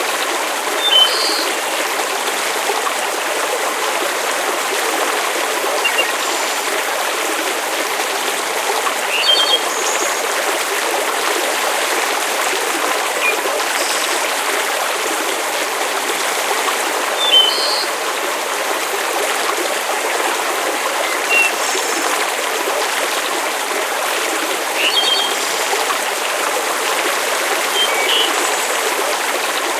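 Steady, even wash of water noise, like rain or a flowing stream, in a layered nature ambience track. Brief high chirps come back about every eight seconds.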